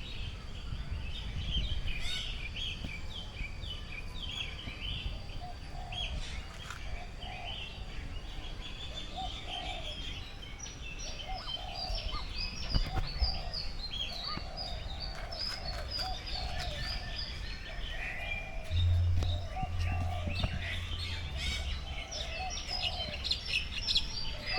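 Many birds chirping and calling together in an aviary, a dense chorus of quick high chirps, with a lower call repeated over and over through most of the middle. A low rumble, likely wind on the microphone, swells briefly near the end.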